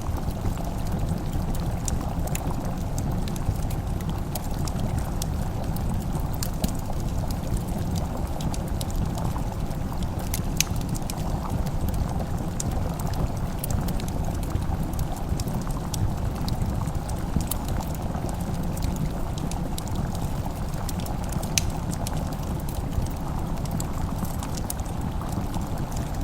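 Fireplace fire burning: a steady low rush of flames with scattered, irregular sharp crackles and pops.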